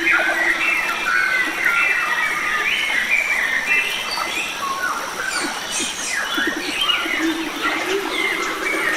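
Chorus of wild forest birds singing and chirping over one another in many short rising and falling notes, with a thin steady high tone beneath.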